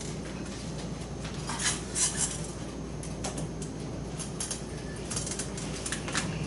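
Irregular short scratchy strokes of a pen or chalk writing, in a few clusters, over a steady low hum.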